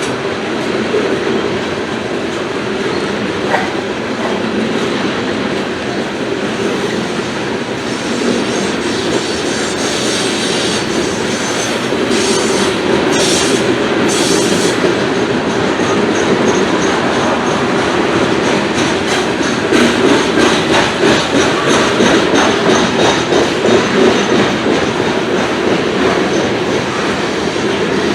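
Loaded coal cars of a slow freight train rolling past, the wheels clacking over rail joints with some high wheel squeal. The clacking grows louder and more rhythmic in the last third.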